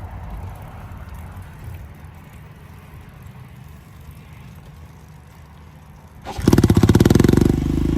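A low rumble, then about six seconds in a motorcycle engine bursts into life with fast, even firing before settling into a steady run.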